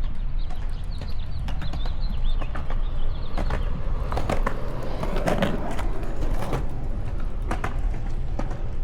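Wind rumbling on the microphone of a moving bicycle, with frequent clicks and rattles from the bike rolling over pavement, and a few bird chirps in the first couple of seconds.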